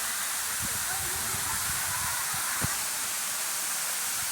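Steady rushing hiss of a waterfall, with faint distant voices and one short thump a little past halfway.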